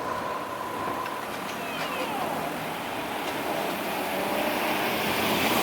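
A train running at a level crossing, its steady rumble and hiss carrying faint high squeals, most likely from the wheels on the rails. The noise grows louder near the end.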